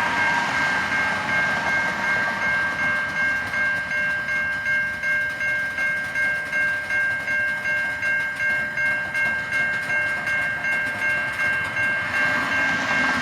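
Railroad crossing bell ringing steadily at about two and a half strikes a second, over the low rumble of a freight train moving slowly along the track.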